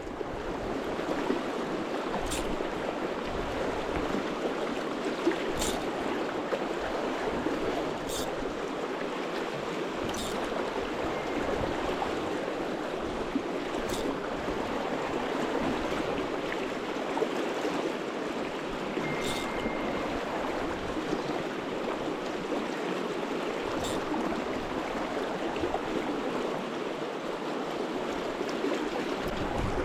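Steady rush of flowing river water, with a few faint clicks now and then.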